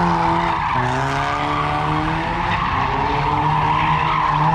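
Mazda Miata's four-cylinder engine held at high revs while the rear tyres squeal and skid, the revs dipping briefly about a second in and rising again.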